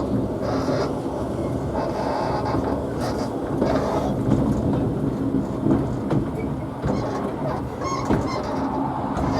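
Narrow-gauge steam train in motion: a steady rumble of the running train with a few short clicks.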